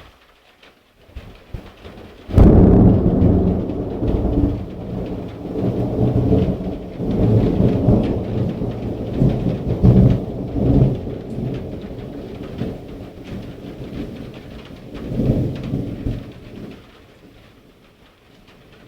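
Thunder during a thunderstorm: a sudden sharp crack about two seconds in, then a long low rumble that swells again twice and dies away near the end. Rain falls steadily underneath.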